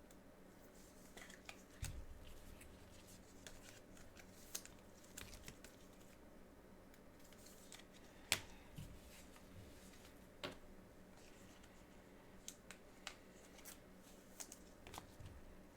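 Trading cards being handled: sparse soft clicks and slides of cardboard cards and card holders, with a sharper snap about eight seconds in and another about two seconds later, over a faint steady hum.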